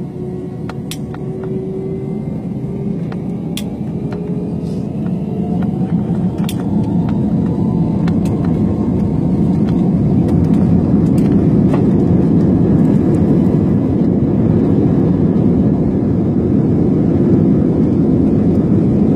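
A steady low engine rumble that grows louder over the first ten seconds, with a faint whine rising in pitch under it and a few light clicks.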